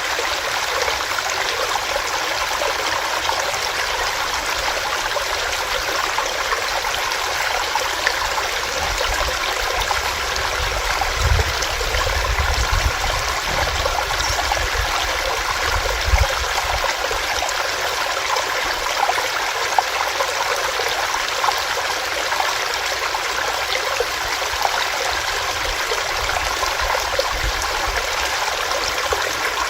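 Small rocky stream running steadily, water rushing and trickling over stones. A low rumble comes in about nine seconds in and fades out a few seconds before the halfway point.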